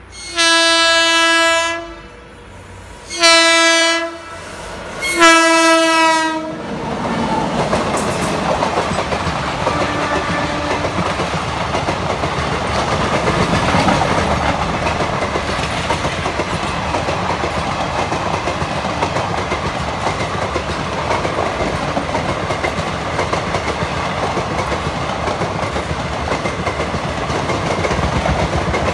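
Three blasts of a WAP7 electric locomotive's horn on a single steady note, the first the longest, as the locomotive approaches. From about seven seconds in, a steady rumble with the clickety-clack of its coaches' wheels as the train passes close alongside.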